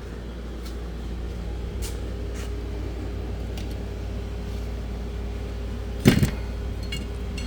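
Steady low machine hum, with a few faint clicks and one sharp knock about six seconds in.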